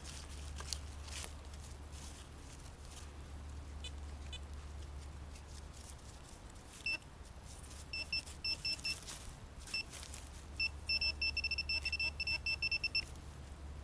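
Metal detector giving a target signal over buried metal: short high beeps, scattered at first, then a fast run of about four a second. Before the beeping there is some rustling and scraping.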